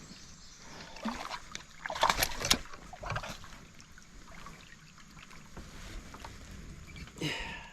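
Handling noises while a largemouth bass is unhooked in a kayak: scattered clicks, knocks and rattles, busiest about two seconds in, then quieter, with one short rustle near the end.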